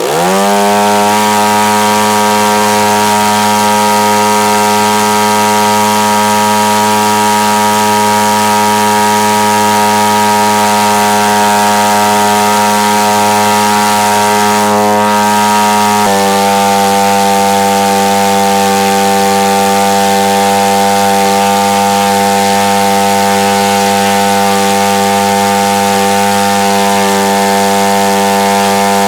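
Husqvarna chainsaw engine, a single-cylinder two-stroke converted to electronic ignition, driving a 22 x 13 propeller. It revs up quickly in the first second and then runs steadily at high throttle. The pitch dips slightly about halfway through.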